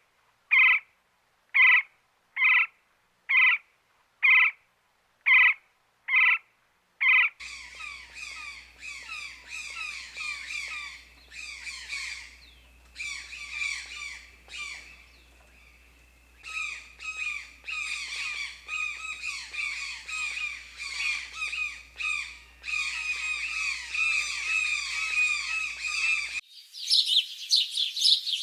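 Bird calls: first a string of about nine separate calls, roughly one a second, then many birds calling over one another for most of the rest. Near the end a different, higher-pitched calling starts.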